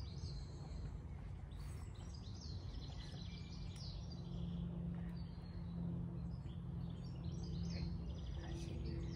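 Songbirds chirping and singing, over a steady low hum.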